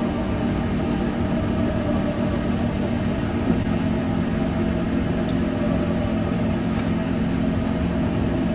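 Steady mechanical hum of running machinery, with a low droning tone that shifts slightly about three and a half seconds in.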